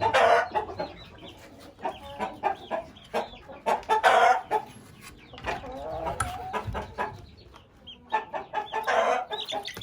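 Chickens clucking and calling, with louder calls near the start, about four seconds in and again around nine seconds.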